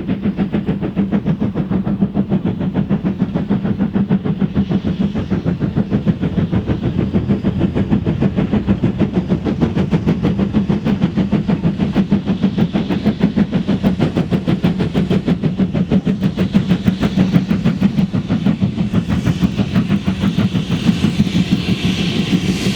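Steam locomotive working hard under load, its exhaust beating in a fast, even rhythm. A hiss grows louder near the end.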